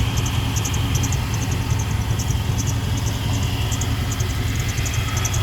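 Old 350 V8 in a pickup idling steadily, with a light belt squeak chirping over the engine's rumble. The exhaust is loud, which the owner puts down to missing mufflers or cut-out catalytic converters.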